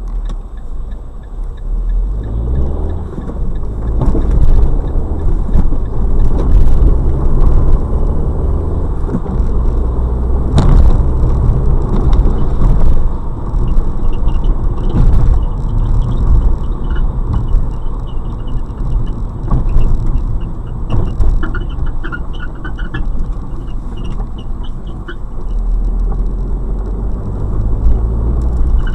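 Fiat Bravo driving, heard inside the car: steady road and engine rumble with occasional sharp knocks over bumps, and from about halfway through, a repeated short, high squeak from the car. The squeak comes while rolling, in gear or not and with the clutch in or out, but not under acceleration.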